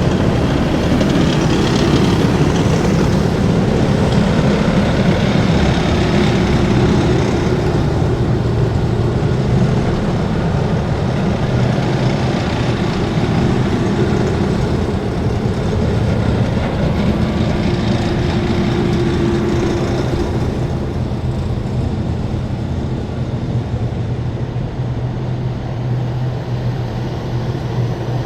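A column of heavy military vehicles driving past, their engines running in a loud, steady drone that eases off a little in the last several seconds.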